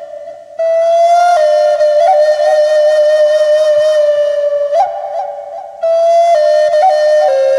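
Black Natura Native American flute playing a slow melody on a few neighbouring low-middle notes, with small grace-note flicks between notes. Near the start and again about five seconds in, a phrase fades away and the next begins after a short breath.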